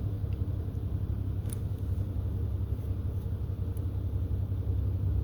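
Steady low rumble with a few faint, short ticks over it.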